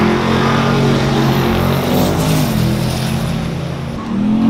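Drag-race car engines running at idle at the start line, a steady low drone. Near the end a louder engine revs up, rising in pitch.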